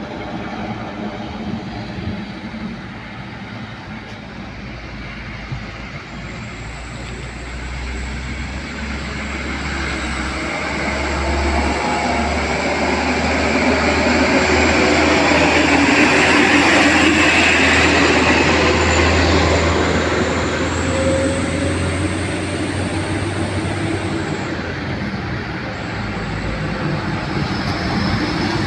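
Sugarcane truck's diesel engine and tyres passing by, growing louder to a peak a little past the middle and then fading, with a thin steady high whine over much of it.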